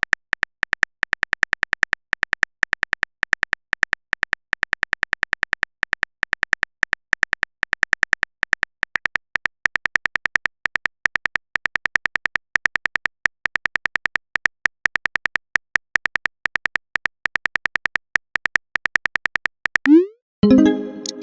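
Rapid, irregular stream of short, high clicks, a text-typing sound effect, broken by brief pauses. Near the end, a short rising swoop and a brief chime-like tone.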